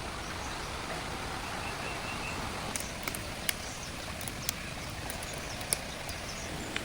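Outdoor ambience: a steady hiss with a handful of sharp, light clicks and ticks from about the middle on, and a few faint short chirps about two seconds in.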